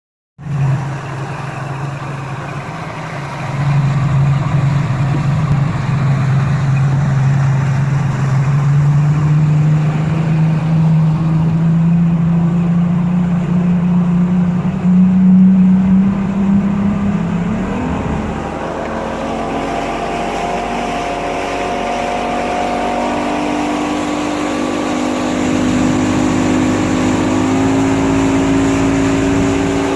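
A 22-foot Angler boat's engine runs under way, its note climbing slowly. About two-thirds of the way through the note shifts higher and keeps rising as the boat speeds up, over a steady rush of wind and water.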